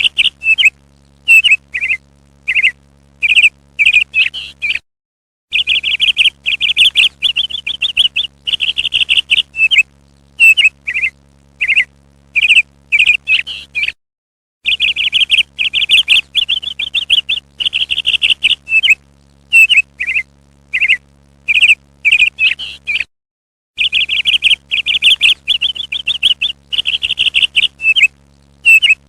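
Parrot calling in loud, quick high chirps and short trills, in bouts broken by brief silent gaps; the sequence repeats about every nine seconds, like a looped recording.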